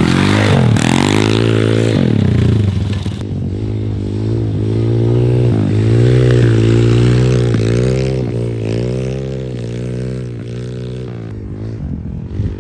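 MRF 140 TTR pitbike's small single-cylinder engine revving up and down as the throttle is opened and closed, with big swoops at first and then rising and falling about once a second, as the rider tries to break the rear tyre loose into a slide.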